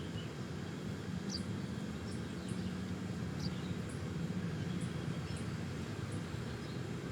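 A few short, faint high bird chirps over a steady low hum.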